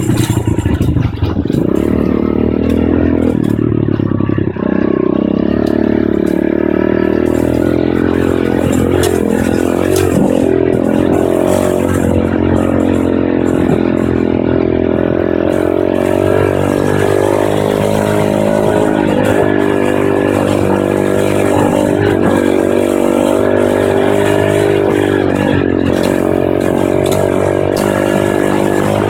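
Pit bike engine running while riding, its pitch rising and falling with the throttle, with frequent light clicks and rattles.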